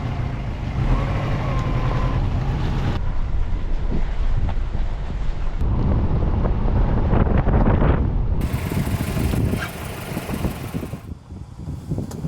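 A vehicle driving, with steady low road and engine noise and wind on the microphone. The sound changes abruptly several times, as if from separate shots cut together.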